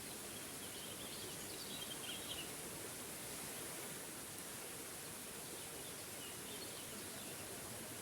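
Waterfall running steadily, a continuous rushing hiss of falling water, with a bird chirping faintly in two short spells, early in and again near the end.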